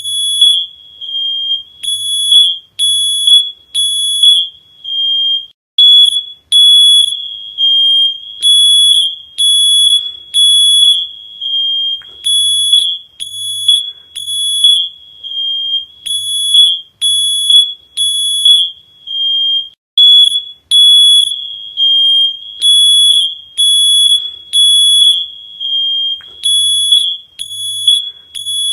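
Smoke alarm sounding: a loud, high-pitched beep repeating over and over in quick groups separated by short pauses.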